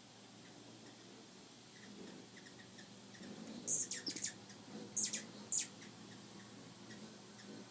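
Hummingbird giving sharp, very high-pitched squeaky chips in two quick clusters of three or four about halfway through, over a faint steady background.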